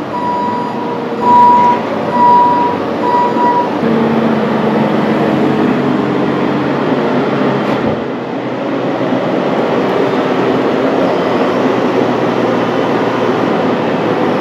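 Sawmill machinery running steadily and loudly. Four short electronic beeps sound in the first few seconds.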